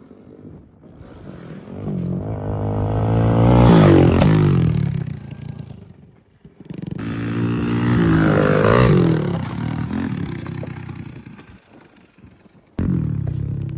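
Pit bike engines revving hard as the bikes ride past, rising and fading twice, with an abrupt burst of engine sound near the end.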